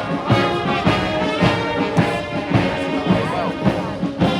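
Brass band playing a march, with held brass notes over a steady beat of about two a second.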